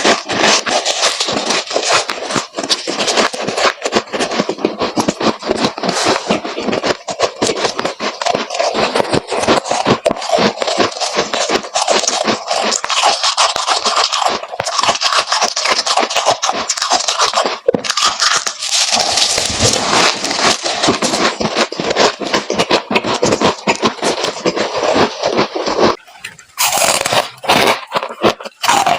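Freezer frost being crunched close to the microphone: a dense, continuous crackling crunch, with a short pause near the end.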